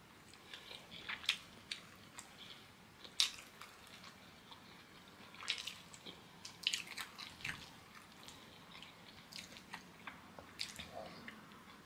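Quiet close-up mouth sounds of someone eating kenkey: soft, wet chewing and lip-smacking clicks at irregular intervals.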